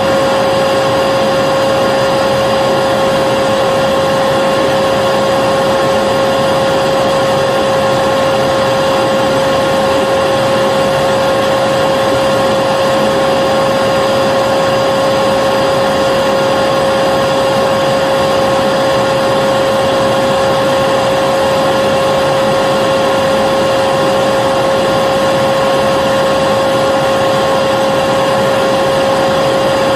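Vacuum cleaner running continuously: a steady motor whine over rushing air, with no change in pitch or level.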